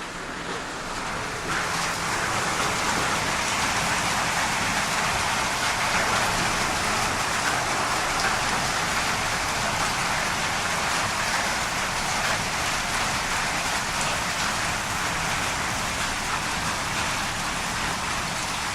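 Heavy thunderstorm rain pouring down in a steady downpour, growing louder about a second and a half in.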